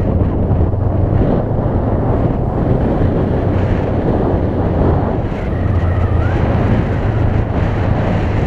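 Honda CB500X's parallel-twin engine running steadily while riding, under heavy wind noise on the camera microphone, with a brief easing about halfway through.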